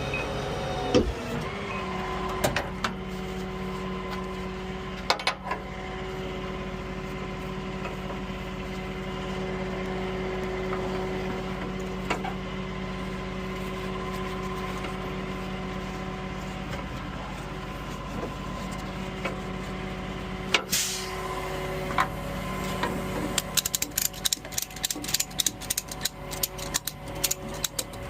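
Tow truck engine running steadily, with a few sharp knocks and clanks; its pitch drops after a loud clank late on. Near the end a fast run of sharp clicks starts, about four a second.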